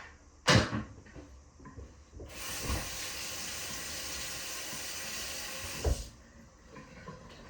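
Kitchen tap running for about four seconds while a steel spoon is rinsed under it. The water starts and stops abruptly, with a knock before it starts and another as it stops.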